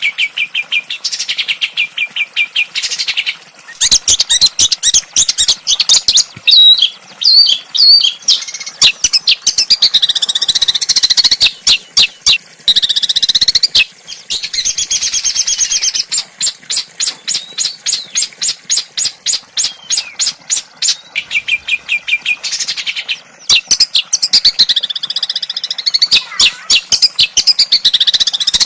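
Small songbird singing loud, fast song: rapid trills of sharp, evenly repeated notes alternating with quicker warbled, rough-edged phrases, with brief pauses between bursts.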